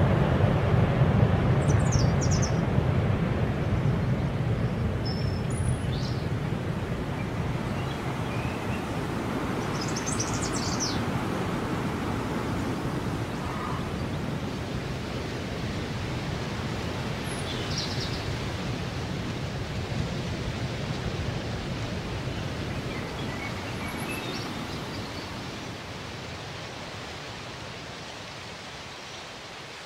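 A steady low rumbling noise that slowly fades away, with a few short, faint bird chirps over it.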